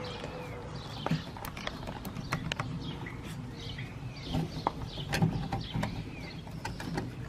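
Irregular clicks, taps and knocks of hand tools and metal parts being handled while an RV furnace is taken apart, with a few short high chirps between them.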